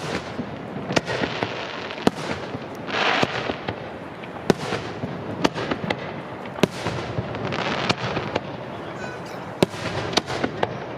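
Aerial fireworks display at close range: a rapid, irregular run of sharp bangs from shells bursting, with a short hissing swell about three seconds in.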